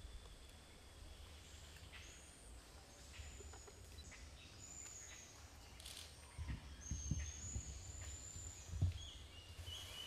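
Faint forest birds calling: several short, high, thin whistled notes, one drawn out in the second half. A low rumble runs under them, and a few dull thumps come in the second half.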